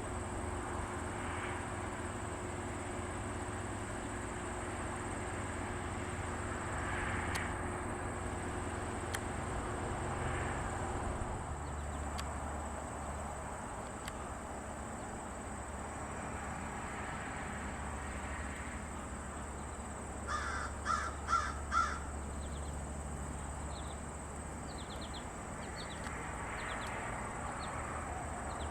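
A crow caws four times in quick succession about two-thirds of the way through, over a steady high-pitched insect drone.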